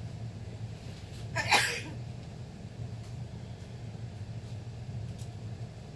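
Steady low rumble of a VR passenger train running along the track, heard inside the carriage. About a second and a half in, one short, sharp, loud noise rises over it for about half a second.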